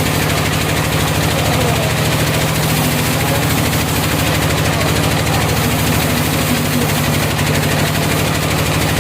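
Sawmill engine running steadily, a fast even pulsing with a strong low hum.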